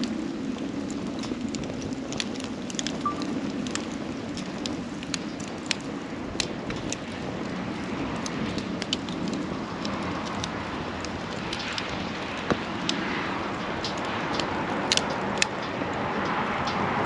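Wood campfire burning, with scattered sharp crackles and pops over a steady rushing background.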